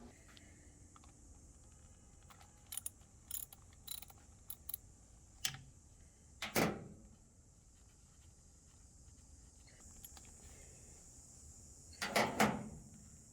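Hand tools and metal mower parts being handled during disassembly: a run of light clicks and clinks, a louder clank about six and a half seconds in, and a quick cluster of clanks near the end.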